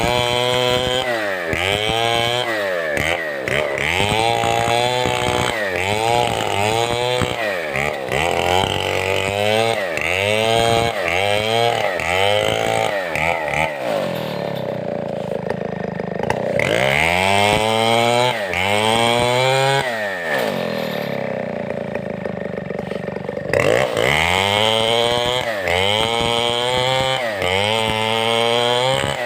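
Large Stihl 070-type two-stroke chainsaw revving up and down over and over, about once a second, as it works through timber. In the middle it twice settles into steadier running for a few seconds.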